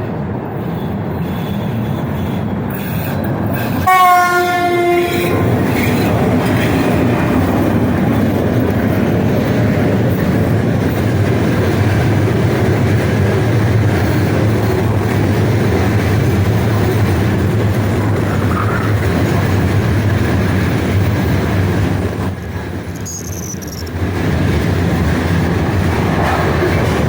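2ES5K Ermak electric locomotives sound one short horn blast about four seconds in. Then a long freight train rolls past with a steady rumble and clatter of wheels on the rails, dipping briefly near the end before picking up again.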